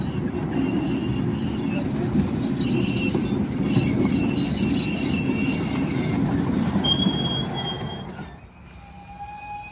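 Miniature ride-on railway train running on its track, with a dense rolling rumble and intermittent high-pitched wheel squeal. The sound drops off sharply about eight seconds in.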